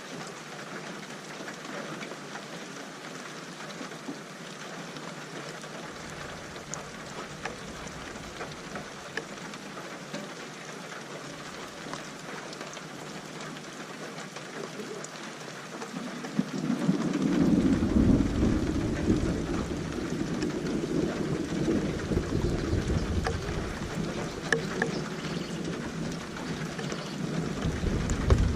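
Steady rain falling, with a long rolling rumble of thunder that builds up a little over halfway through and lasts about ten seconds.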